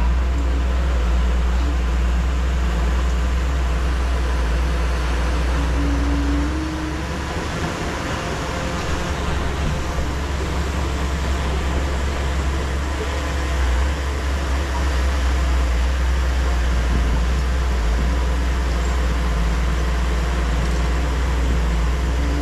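Bulldozer's diesel engine running steadily with a deep rumble, easing off about six and a half seconds in and picking up again a little past the middle.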